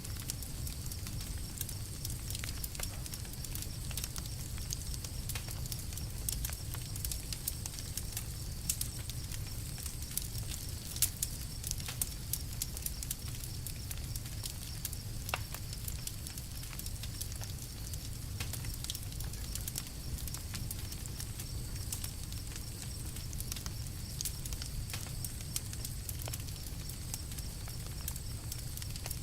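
Campfire crackling: frequent small snaps and pops over a steady low rumble, with a few louder pops around nine, eleven and fifteen seconds in.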